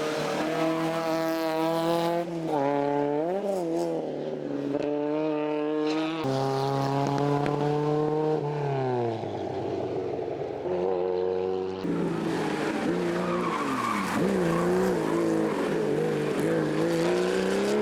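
Rally car engines at full throttle: the pitch climbs through the gears, dips in quick lifts and gear changes, and falls away under braking and downshifting. The sound changes abruptly a few times as one car gives way to another.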